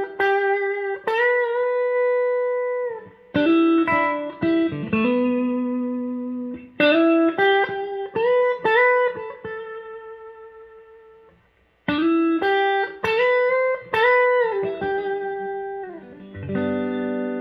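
Electric guitar with McL V2 clone pickups played through a Bluesbreaker-style overdrive pedal: bluesy single-note lead phrases with string bends. Around ten seconds in a held note fades almost to silence, then the licks resume and turn to fuller chords near the end.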